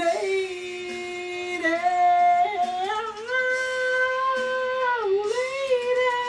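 A man singing long held notes without words. The pitch steps up about three seconds in and dips briefly near five seconds.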